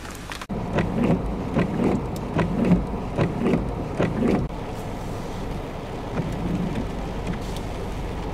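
Rain falling during a thunderstorm, heard as a steady hiss. In the first half there is a run of irregular low thuds that stops suddenly about four and a half seconds in.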